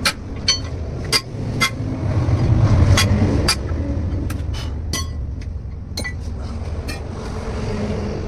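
Sharp metallic clinks and knocks of steel tools on a truck wheel rim during a tube-type tyre change, about a dozen at uneven intervals, some ringing briefly. A low steady rumble runs underneath, louder for a second or so around the middle.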